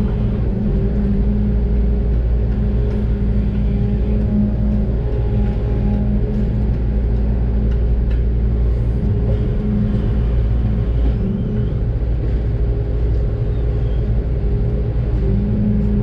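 Doosan DX600 excavator's diesel engine running steadily under work, a loud even drone with a deep rumble, heard from inside the cab.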